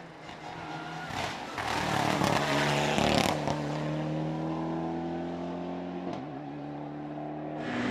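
A hillclimb race car's engine growing louder over the first three seconds, with a brief sharp burst about three seconds in, then holding a loud, steady engine note.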